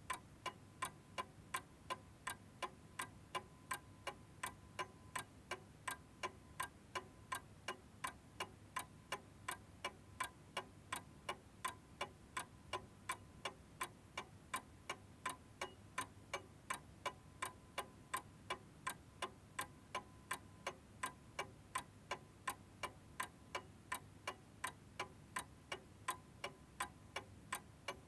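Domestic clock's mechanism ticking in a steady, even rhythm, about two ticks a second.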